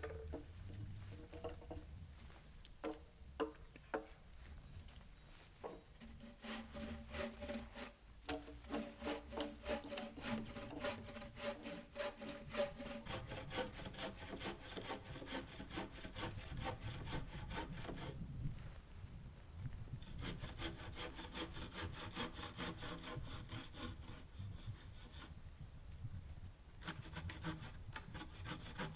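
Hand saw cutting wood in steady back-and-forth strokes, pausing briefly twice, with a few separate knocks in the first seconds.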